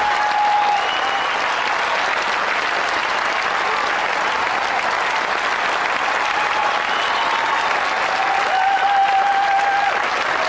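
Audience applauding steadily, with a few faint held tones in the clapping near the start and again late on.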